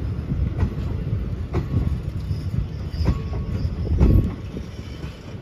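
Passenger train rolling past at low speed, steel wheels rumbling on the track and knocking over rail joints a few times, with a faint wheel squeal about three seconds in.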